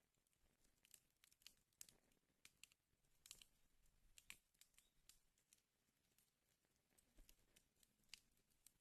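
Wood fire burning in a fireplace, crackling faintly with irregular sharp pops and snaps.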